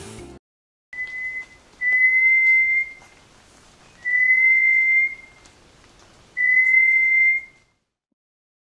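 A bird's pure whistled song: a short note, then three long, slightly rising notes near the same pitch, about two seconds apart, over faint hiss.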